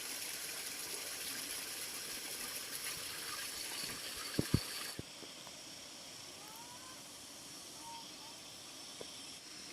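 A steady rushing hiss that cuts off suddenly about five seconds in, with two sharp knocks just before it stops; a fainter hiss follows.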